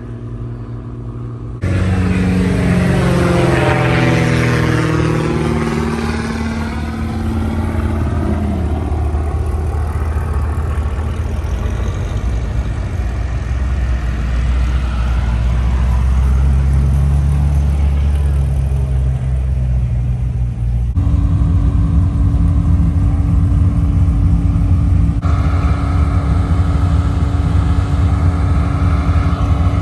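Loud engine noise of vehicles. One passes close by about four seconds in, and the sound changes abruptly twice in the second half.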